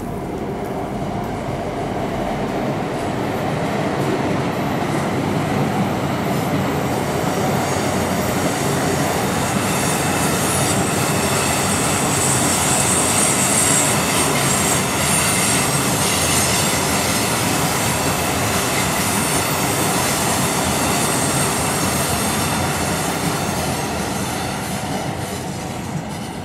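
ICE 4 (class 412) high-speed electric train passing on a concrete viaduct: the rumble of its wheels on the rails swells to a peak about halfway through and then fades away. Thin, high wheel squeal rings over the rumble while the train is at its loudest.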